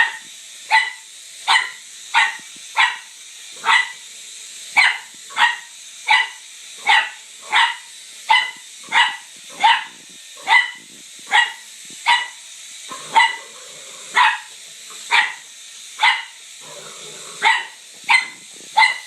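A dog barking over and over, about one sharp bark a second for the whole stretch, over a faint steady hiss.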